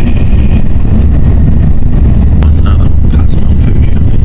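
Shinkansen bullet train running at speed, heard as a loud, steady low rumble, with a sharp click about two seconds in.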